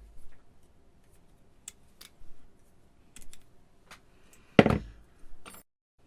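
Light clicks and taps of thin steel strips for kalimba keys being handled and cut to length, with one much louder sharp clack about four and a half seconds in.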